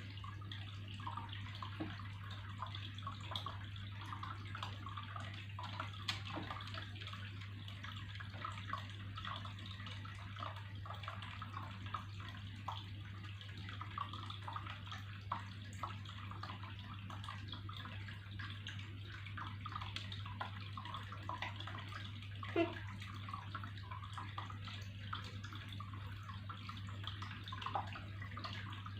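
Water trickling and splashing steadily in many small droplets over a steady low hum, with one louder plop about three quarters of the way through.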